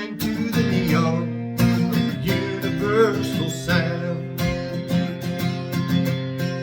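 Acoustic guitar strummed in steady, regular strokes in a country song, with a few bending melody notes over the chords.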